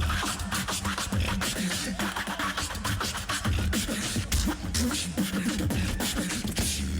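Tag-team beatboxing: two or more beatboxers making vocal drum beats, with kick and snare sounds, clicks and hummed bass lines, in a live battle routine.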